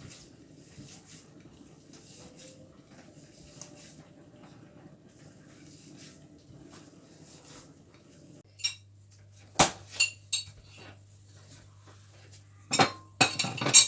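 Kitchen utensils clinking and knocking against dishes or a pot: a handful of sharp clinks in the last five seconds, over a faint low background.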